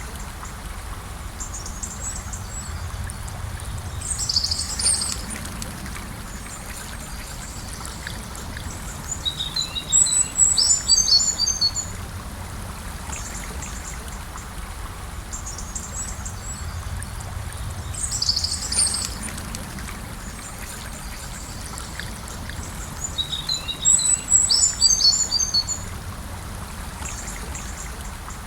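Gentle river flowing steadily, with songbirds calling over it: a short high call and then a longer twittering phrase, the pair coming twice about fourteen seconds apart.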